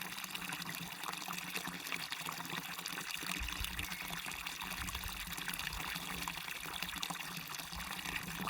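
Small waterfall splashing and burbling steadily, with many small splashes and drips over the rush of the water. A brief low rumble comes in near the middle.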